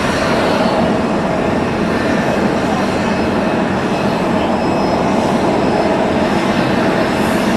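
Jet airliner engines running, a steady, loud noise with faint high whining tones.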